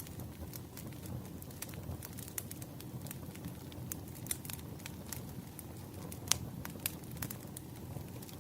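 Firewood burning: a steady low rush of the flames with frequent irregular crackles and pops, the sharpest pop about six seconds in.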